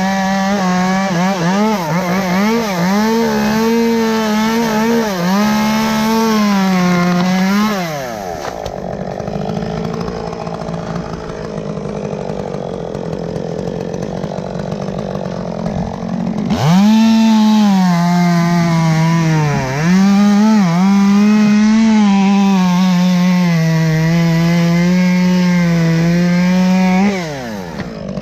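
Two-stroke chainsaw cutting into an elm, its engine note wavering and dipping as the chain bites. It drops back to a lower, rougher running for several seconds midway, then is run up and cuts again for about ten seconds.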